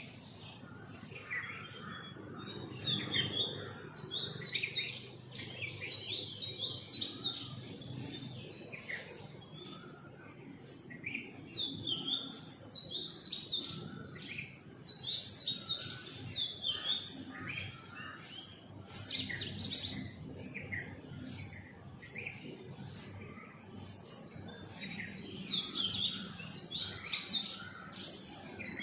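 Several small birds chirping and twittering in a morning chorus, many short quick notes overlapping throughout, over a faint low background hum.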